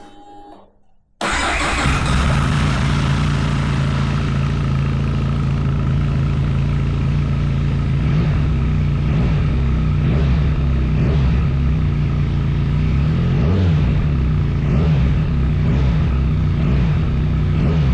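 Benelli TRK 502 X parallel-twin engine, breathing through an aftermarket Storm Racing exhaust, starts up suddenly about a second in and then runs at a steady, loud idle.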